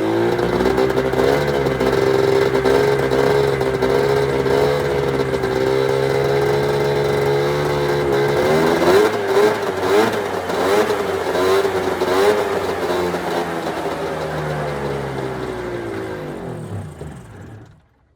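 1996 Arctic Cat ZRT 600 snowmobile's two-stroke triple running, its speed wavering, with a few short throttle blips about halfway through. Near the end it slows and dies out, which the owner suspects is the carburetor float bowls running dry after the fuel pump rebuild.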